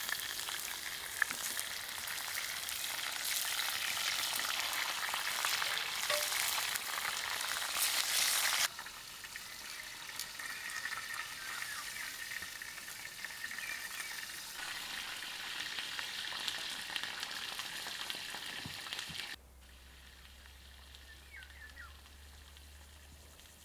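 Food sizzling as it fries in hot oil. The sizzle drops suddenly in level twice, about eight and a half and nineteen seconds in, leaving a fainter stretch with a low hum near the end.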